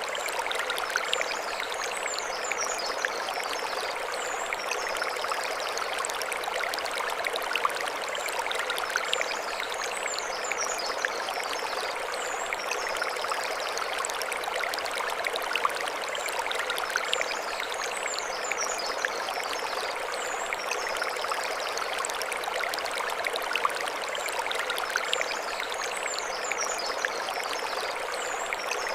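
Mountain stream running over stones, a steady rushing and splashing with many small trickles. A short high twittering phrase recurs every few seconds above the water.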